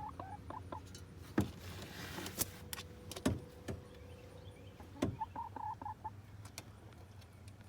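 A chicken giving short soft clucks twice, with several sharp knocks and taps around it, over a low steady hum.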